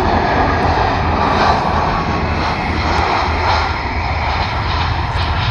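Airbus A320 airliner's jet engines, a loud, steady rushing noise as the aircraft arrives, easing slightly about four seconds in.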